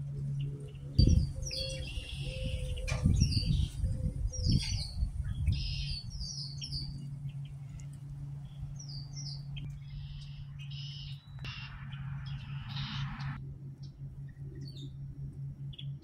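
Birds chirping in quick runs of short, high calls, with a lull in the middle and more calls after it. Low rumbling thumps, the loudest about a second in, and a steady low hum sit underneath.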